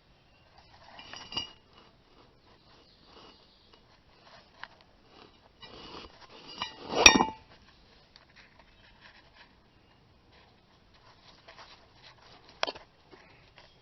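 Metal brake parts and hand tools clinking and rattling as they are handled, with a sharper metal knock about halfway through and another near the end.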